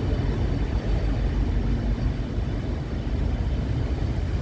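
Steady low rumble of a train, with no separate beats or strokes standing out.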